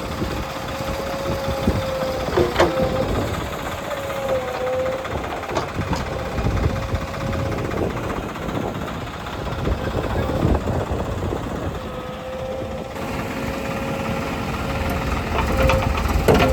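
Diesel engine of heavy farm machinery running under a steady rumble, with a high steady whine over it that drops away for a couple of seconds about ten seconds in and returns. A sharp knock about two and a half seconds in.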